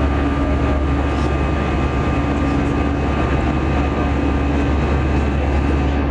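Steady airliner cabin noise in flight: a continuous low rumble of engines and airflow, with a few steady humming tones over it.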